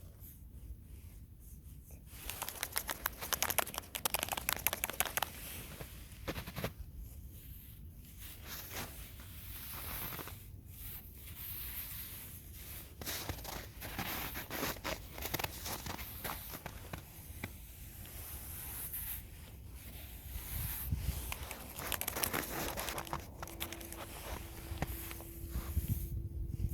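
Irregular bursts of crackling, rustling and scraping, like material being handled, crumpled or torn, with short pauses between them. A faint steady hum comes in near the end.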